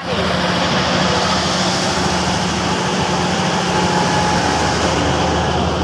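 Heavy diesel engine of a logging truck running steadily at a constant low pitch.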